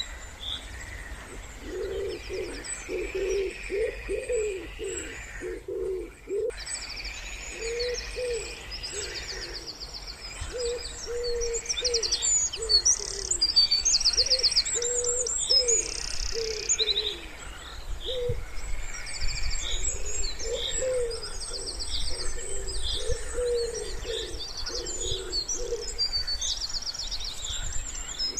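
A wood pigeon cooing in repeated phrases of soft low notes, while small songbirds chirp and trill at a high pitch throughout, over a faint steady low rumble.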